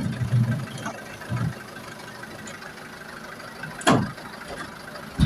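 Dump truck engine idling low and uneven, with two sharp knocks about four and five seconds in.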